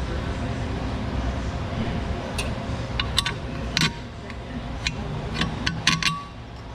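Scattered sharp metallic clinks and ticks of hand tools and bolt hardware being worked, about a dozen, most of them in the second half, over a steady low hum.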